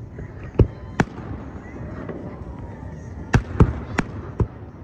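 Aerial fireworks shells bursting overhead: six sharp bangs, two in the first second and four more in quick succession near the end.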